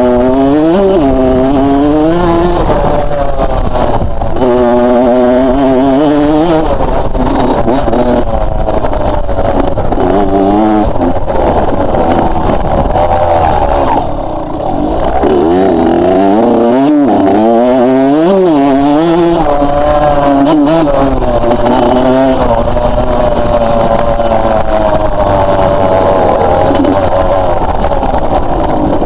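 Two-stroke motocross bike engine revving up and dropping back again and again as the throttle is worked through the gears. There is a brief throttle-off lull about halfway through.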